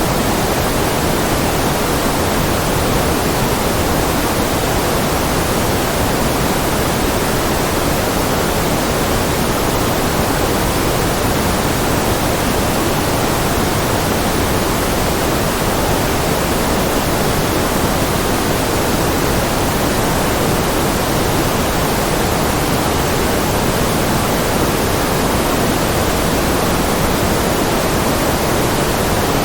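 Steady generated white-noise-type hiss, even and unchanging throughout, with more weight in the low and middle range than in the highs.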